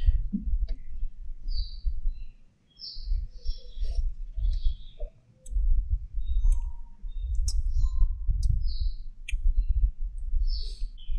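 Small birds chirping repeatedly in short, high calls from the surrounding trees, over a louder, uneven low rumble.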